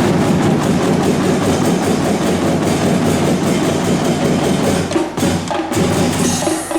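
School drum band playing a fast, dense drum passage, many rapid strokes at once, with two short breaks a little after five seconds in.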